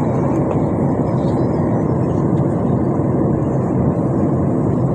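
Steady noise of an airliner's cabin: the low, even rush of jet engines and airflow heard from inside the aircraft.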